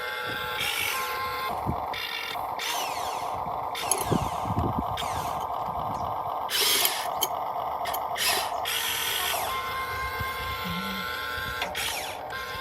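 Small electric gear motors of a Huina 1592 radio-controlled excavator whining, with gear chatter. The whine slides up and down in pitch, and there are several louder rasping spells as the machine works.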